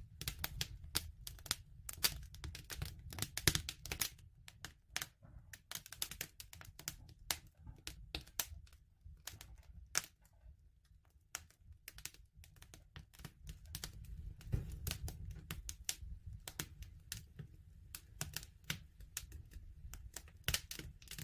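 Bonfire crackling: irregular sharp pops and snaps over a steady low rumble of the fire, the pops thinning out for a few seconds in the middle.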